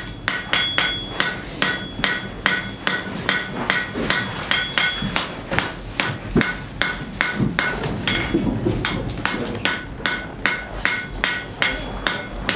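Blacksmith's hammer striking steel on an anvil in a steady rhythm, about three blows a second, each blow leaving a bright metallic ring: hand-forging steel.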